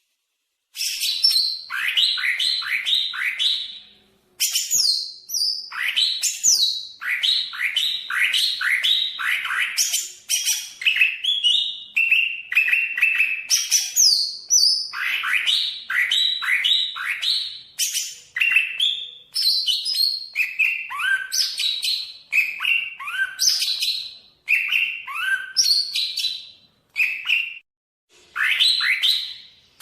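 Greater green leafbird (cucak ijo) singing a fast, varied song: rapid runs of repeated downslurred whistled notes and higher trills, in phrases with brief pauses.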